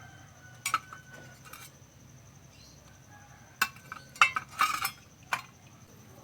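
Small sharp clicks and clinks of wires, clips and parts being handled while an amplifier board is hooked up, with a few single taps and a brief cluster of them about four to five seconds in.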